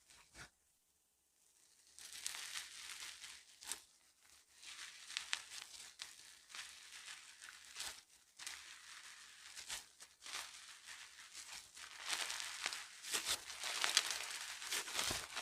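Slime being stretched, pressed and folded by hand, giving a dense run of crackling, crinkling pops and clicks. It starts about two seconds in and grows louder toward the end.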